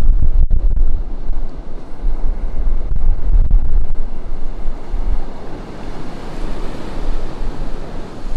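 Ocean surf breaking and washing onto a beach, with wind buffeting the microphone as a gusty low rumble. A wave's wash swells up over the second half.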